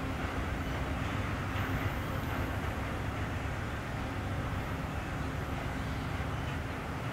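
Diesel locomotive running with a steady low drone and a faint steady hum above it.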